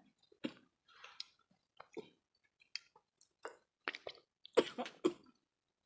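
People chewing food with their mouths, a string of short, irregular wet smacks and clicks with quiet gaps between them.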